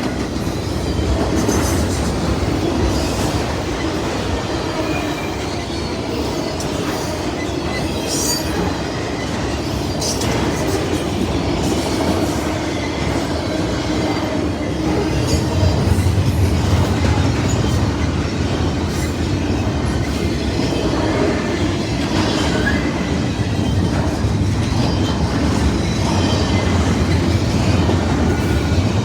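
Freight train's intermodal cars rolling past: a steady rumble of steel wheels on rail, with clicks over the rail joints and a few brief high wheel squeals.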